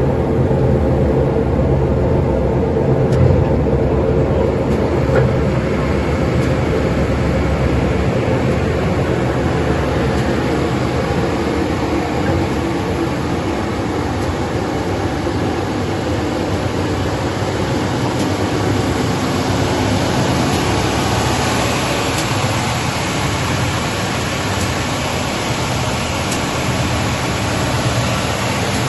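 Levigaltecnica SRRN 1100 Micro wide belt sander running steadily, a dense mechanical hum with hiss. From about ten seconds in the low hum eases and the high hiss grows.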